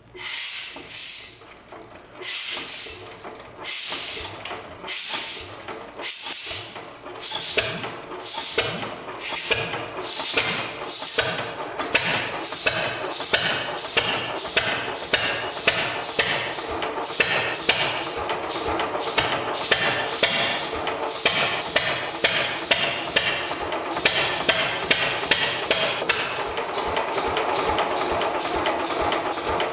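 1930s Stover 10 hp single-cylinder diesel engine being cranked over by hand with the decompression open: one sharp beat each turn, speeding up from about one a second to several a second as momentum builds. In the last few seconds the beats run together into a steadier sound as the engine catches on its first try.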